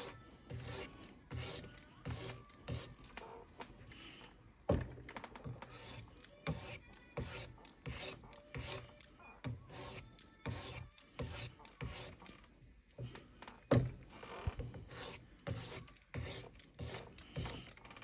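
Steel knife blade drawn again and again over a fine 50/40-grit CBN (elbor) sharpening stone with a copper-tin metal bond, a steady run of short rasping strokes about one and a half a second. This is the finishing stage of the sharpening.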